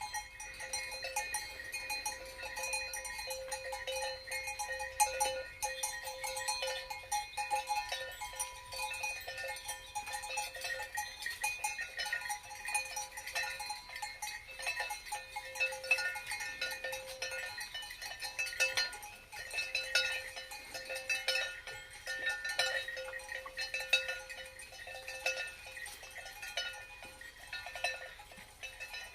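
Many cowbells on a herd of cattle clanking and ringing irregularly and continuously as the animals walk.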